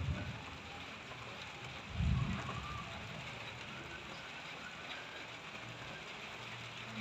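Steady hiss of light rain falling, with a short low rumble at the start and a louder one about two seconds in.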